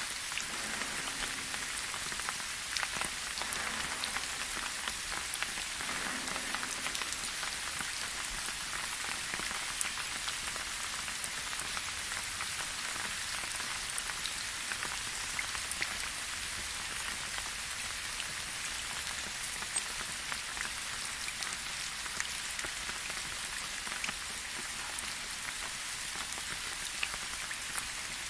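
Light rain falling steadily, an even hiss with many small scattered drop hits.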